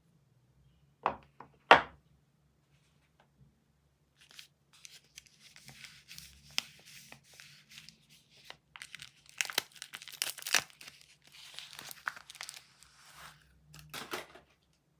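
Soap wrapper being handled and unwrapped: two sharp taps between one and two seconds in, then a long stretch of crinkling and tearing, loudest near the end.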